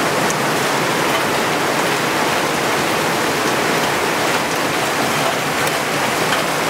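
Rain falling steadily and loudly in a storm.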